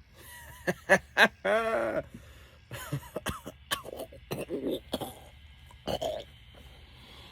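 A man coughing and clearing his throat, hawking up phlegm in a string of short, irregular throaty bursts, the lead-up to spitting.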